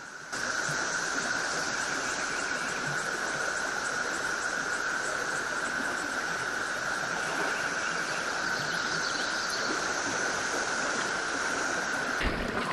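Dense chorus of cicadas from the mass hatch, a steady unbroken drone, over the rush of the river; it cuts off abruptly near the end.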